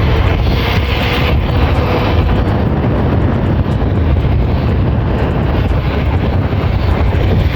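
Wind rushing over the microphone while riding a bicycle at speed, a steady loud rush heaviest in the low end.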